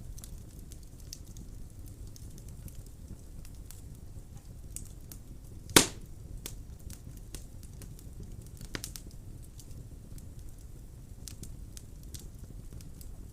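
Wood fire burning in a fireplace: a steady low rumble of flames with scattered crackles and one loud pop a little under halfway through.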